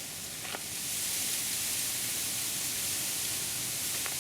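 Bamboo leaves rustling in the wind, a steady high hiss that swells about a second in and holds.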